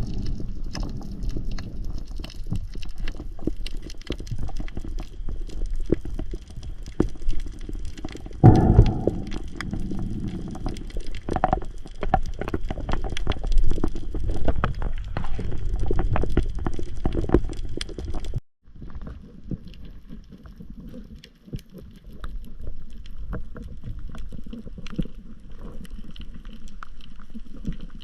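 Gurgling, crackling water noise with many small clicks. It cuts off abruptly about two-thirds of the way through, leaving a quieter wash of water sound.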